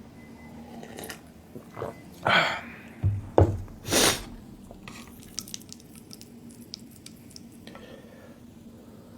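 Close-miked wet eating sounds: a few loud bites and mouth smacks in the first half, then quieter small clicks.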